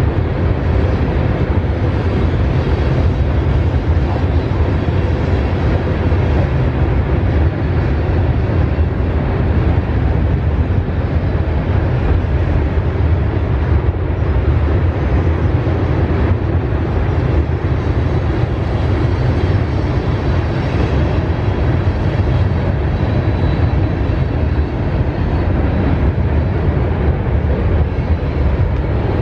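Freight train cars rolling past on the rails, a loud, steady noise heavy in the low end.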